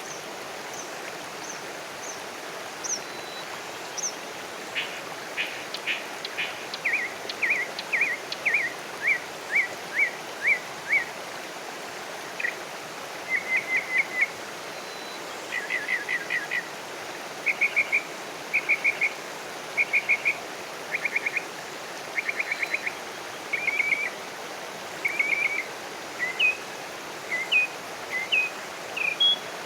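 Wild birds singing over a steady background hiss. At first there is a run of high, thin chirps; from about five seconds in, a bird repeats short quick trills of a few notes every second or two.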